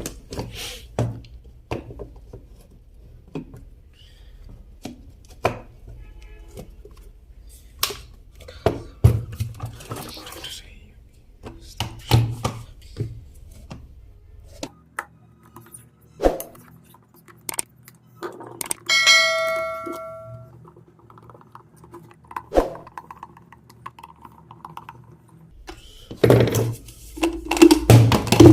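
Clicks and knocks of plastic and metal parts being handled and fitted together as an electric kettle is reassembled after repair. A short metallic ring sounds once, about two-thirds of the way through.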